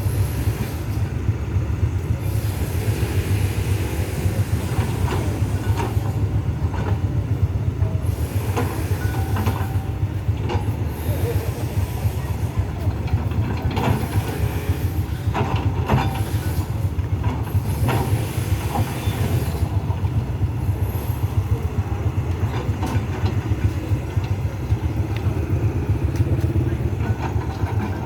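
Engines of a working excavator and waiting vehicles running in a steady low rumble, with scattered knocks and clanks and voices in the background.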